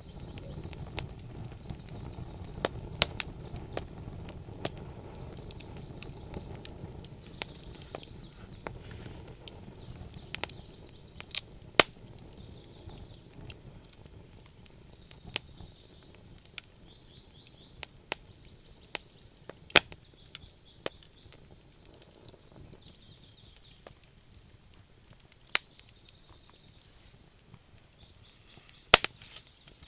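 Wood fire burning in a stove, crackling with sharp pops at irregular intervals over a low rumble of flame that eases after the first several seconds.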